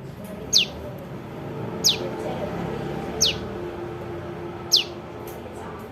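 Calls of a young prenjak lumut: four short, sharp, high notes, each falling steeply in pitch, repeated about every second and a half over a low background hum.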